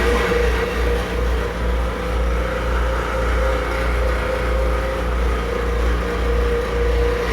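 Mitsubishi Line Delia ceiling cross-flow fan in a Keikyu 1500 series train car, running with a steady hum over a low throbbing rumble. It is very noisy and has a fairly loud abnormal sound.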